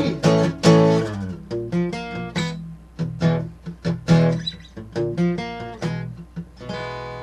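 Acoustic guitar playing a short instrumental passage of separate plucked notes and chords, ending on a chord left ringing near the end.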